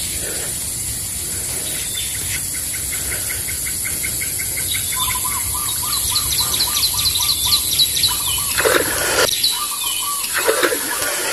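Small birds calling in quick runs of short repeated notes, several runs at different pitches overlapping, over a steady high-pitched hiss. A brief rustle comes about three-quarters of the way through.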